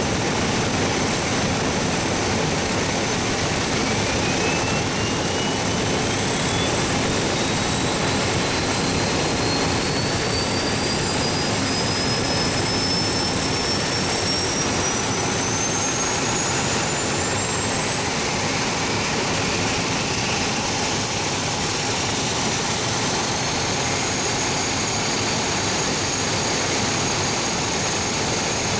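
Beechcraft B200 King Air's Pratt & Whitney PT6A turboprop engine starting: a loud steady rush under a thin whine that begins about four seconds in and climbs slowly in pitch for some twenty seconds as the turbine spools up, then holds at one pitch.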